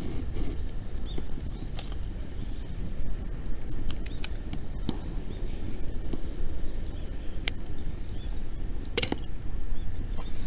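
Dry wood fire crackling, with scattered sharp pops, the loudest cluster about nine seconds in, over a steady low rumble.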